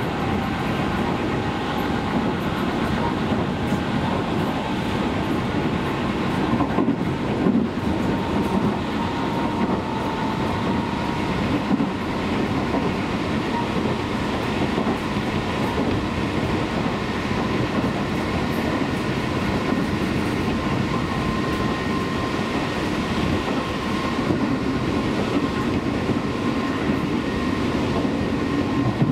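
Seibu Railway commuter train running along the line: a steady rumble of wheels on rail with some clickety-clack and a faint steady tone above it.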